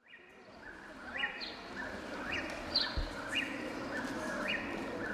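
Birdsong: short rising chirps repeating a couple of times a second over a faint steady hiss, starting about a second in.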